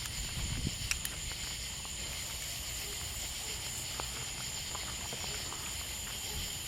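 Steady night-time outdoor ambience: an even, high-pitched drone of night insects with a low rumble underneath and a few faint clicks.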